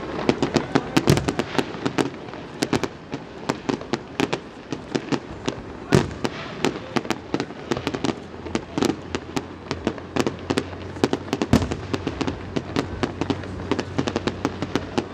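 Aerial fireworks display: a dense, irregular string of sharp bangs and crackles from bursting shells, with louder booms about six seconds in and again near the twelve-second mark.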